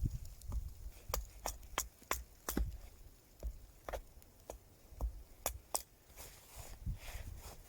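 Wood fire crackling, with irregular sharp pops and snaps, a few low thumps, and a soft hiss toward the end.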